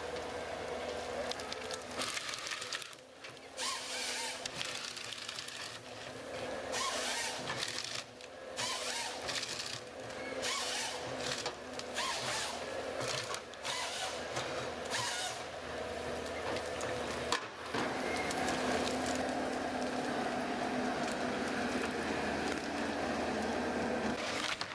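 Wood-processing machinery running with a steady hum, broken over the first half by a series of short, harsh noisy bursts. About two-thirds of the way through it changes to a steadier, fuller running sound.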